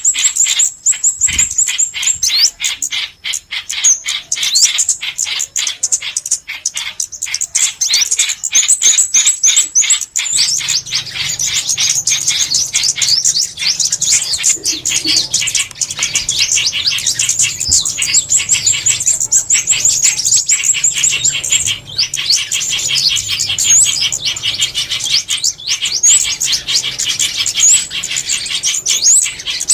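Recorded small songbirds calling: a dense stream of rapid, high chirps and twitters with no let-up, a lure recording used for glue-trapping. About a third of the way in the calls grow fuller and a low hum joins underneath.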